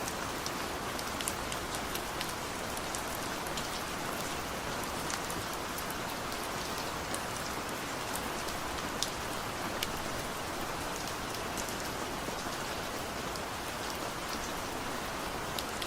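Steady rain falling, an even hiss with scattered sharp ticks of individual drops hitting a surface close by.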